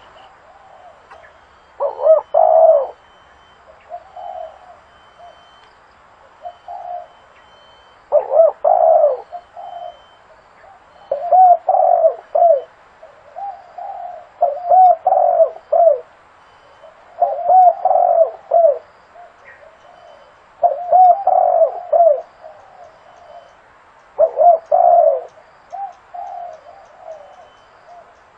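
Spotted dove cooing over and over, a short phrase of hoarse coos every two to four seconds. It is a lure call for bringing wild doves in.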